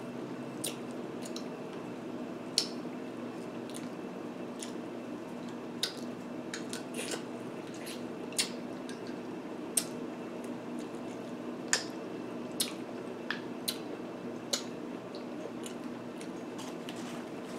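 Close-miked eating: wet smacks and clicks of someone chewing lobster claw meat. The sharp smacks are irregular, about one a second, over a steady low hum.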